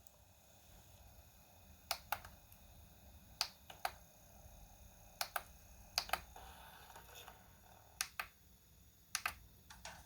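Sharp clicks coming in pairs about a fifth of a second apart, six pairs spread over several seconds, over a faint low hum.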